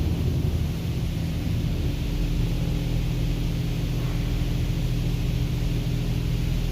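Automatic car wash machinery running with a steady low hum and a hiss of noise, heard from inside the vehicle.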